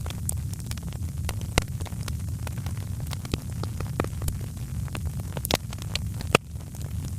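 Wood fire crackling: sharp pops and snaps at irregular intervals over a steady low rumble of the burning fire.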